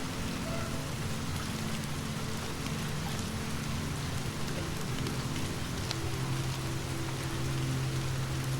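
Steady rain falling, with fine scattered drop ticks over a constant hiss. A low steady hum lies beneath it and grows a little stronger about six seconds in.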